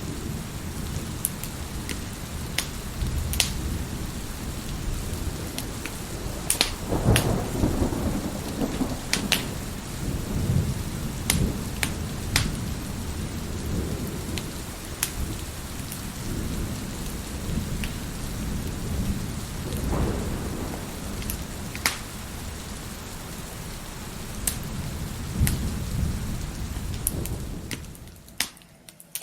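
Wood fire crackling with scattered sharp pops over steady heavy rain, with thunder rolling in low swells a couple of times. The sound drops away briefly near the end.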